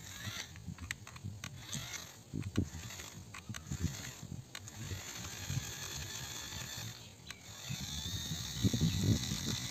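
Small plastic toy tractors worked by hand through mud, with irregular clicking and rattling of their plastic parts and wheels and low knocks.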